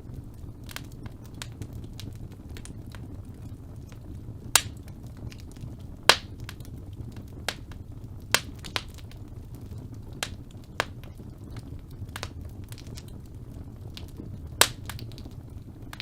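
Wood fire burning in a fireplace: a steady low rumble of flame with irregular sharp crackles and pops, the loudest coming about four and a half, six, eight and fourteen and a half seconds in.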